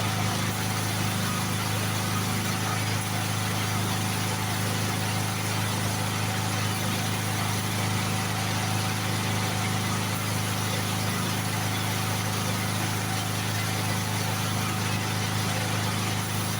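A steady machine hum with an even hiss over it, unchanging in pitch and level.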